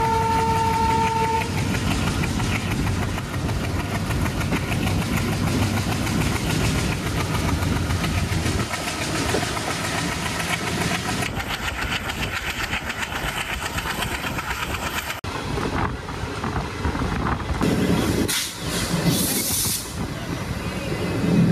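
A moving passenger train hauled by twin ALCO diesel locomotives: steady rumble and wheel clatter. A short horn note sounds at the start and ends about a second and a half in. The sound changes abruptly about two-thirds of the way through.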